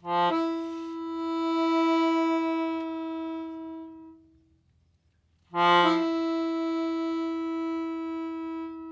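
A wind instrument sounds two long held notes, played as the howl of wolves. Each note opens with a brief lower note that jumps up to the main pitch, then holds steady and slowly fades. The second note begins about halfway through.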